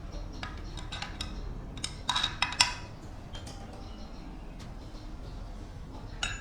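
Small metal objects clinking as they are handled, with a short burst of louder metallic clattering about two seconds in.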